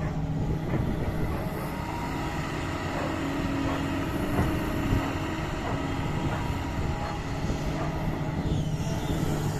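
Doosan DX225 excavator's diesel engine running steadily, with a few short knocks; the loudest comes about five seconds in.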